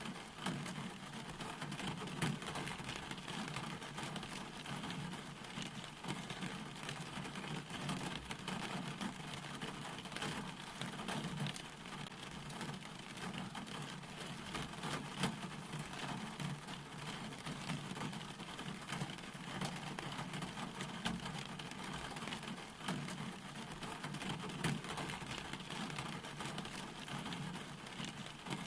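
Steady rain falling, a dense patter of drops over an even hiss, with a constant low hum underneath.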